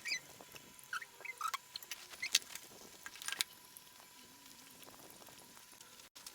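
Close-up eating sounds: scattered mouth clicks and smacks with short, high squeaks while chewing a crunchy mouthful of rice, beef and fried shallots.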